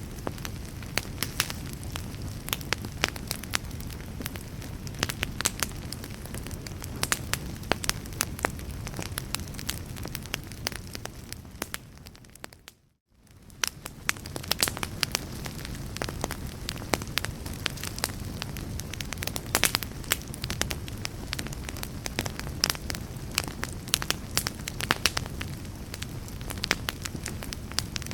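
Fire crackling steadily, many sharp pops and snaps over a low, even rumble. About 13 seconds in it fades briefly to near silence and fades back in.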